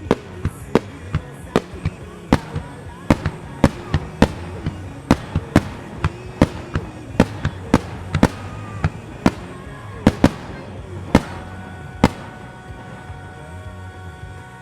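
Music starmine fireworks: a rapid string of sharp shell bursts, about two or three bangs a second, over a music soundtrack. The bangs stop about twelve seconds in, leaving the music.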